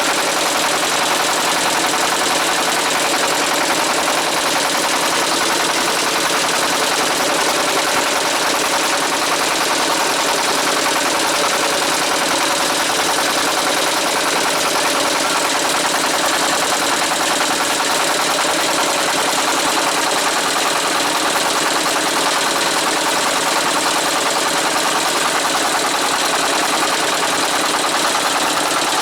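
Small river boat's engine running steadily, a loud, even, rapid pulsing.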